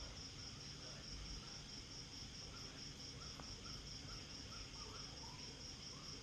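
Night insects chirping steadily: a high, even pulsing trill at about five pulses a second. From about two seconds in, a faint run of short repeated chirps sounds lower down, over a low background rumble.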